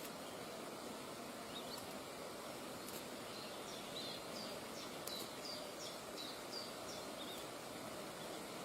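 A run of short, high bird calls, about a dozen notes between roughly two and seven and a half seconds in, over a steady outdoor background hiss.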